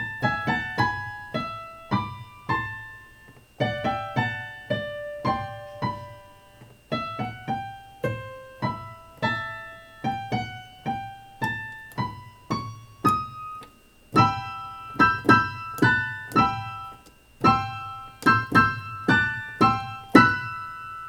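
Piano playing a simple melody in the upper register as separate, detached notes, a few per second. About two-thirds of the way through, the notes come in quicker, louder clusters.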